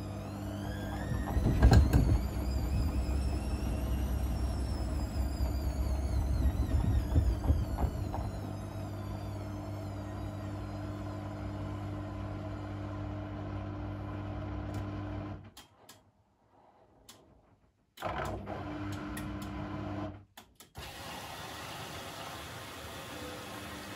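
Blomberg fuzzyDigitronic Granat 3200 washing machine in its wash cycle: the motor turns the drum with a whine that rises and then falls, with the laundry thudding inside. About two-thirds of the way through the motor stops and the machine goes almost silent apart from a few clicks, and a steady hum starts again near the end.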